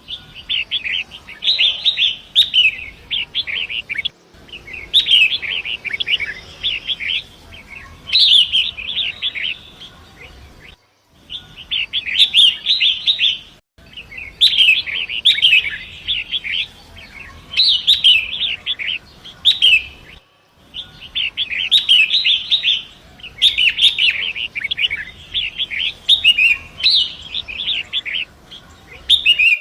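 Long-tailed shrike (pentet) singing: quick high notes run together in phrases of one to three seconds, repeated with short pauses and a few abrupt breaks.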